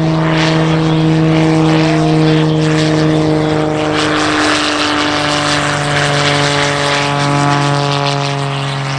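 Propeller-driven aerobatic biplane (Wolf Pitts Pro) flying with its engine and propeller running steadily. The pitch drops slightly about halfway through and slides slowly lower near the end.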